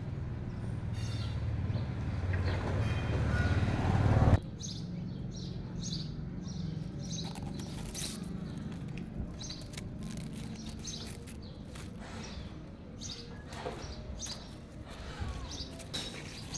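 Small birds chirping in short, repeated calls. Before them, a low rumble grows louder and breaks off abruptly about four seconds in.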